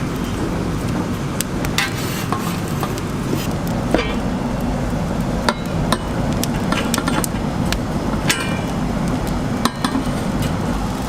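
Scattered sharp clicks and knocks of kitchen tools during food preparation, irregularly spaced, over a steady low background rumble.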